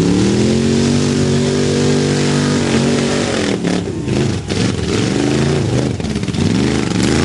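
Mud-bog race truck's engine revving hard: the note climbs and holds high for a few seconds, then rises and falls several times as the throttle is worked.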